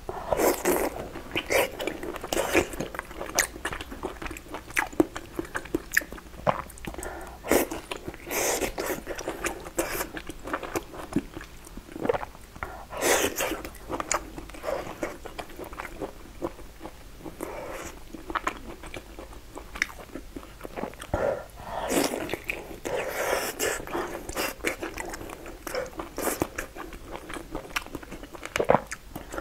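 Close-miked eating of glazed braised pork belly: biting and chewing with many short, wet, sticky clicks, louder in clusters as fresh pieces go in.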